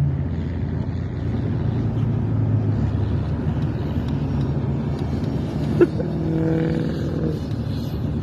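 Jeep Wrangler TJ driving through snow: steady engine and road noise. A sharp click comes about six seconds in, followed by a short steady tone.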